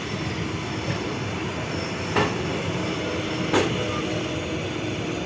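Train running past on the rails with a steady rumble of wheels, and two sharp knocks about a second and a half apart.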